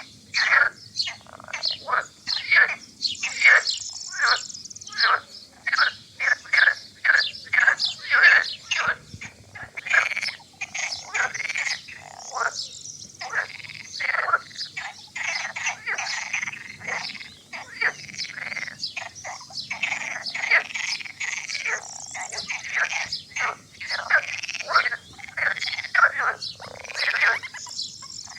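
A chorus of frogs calling at a lagoon: many short croaks repeated rapidly and overlapping, with no pause.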